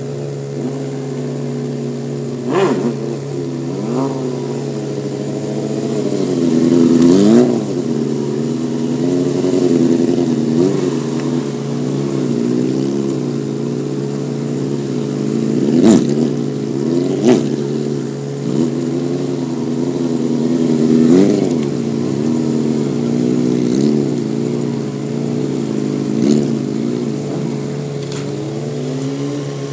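Inline-four sport bike engines revving up and down again and again as the riders work the throttle through wheelies, over a steady low hum. A few sharp cracks stand out, one a couple of seconds in and two more past the middle.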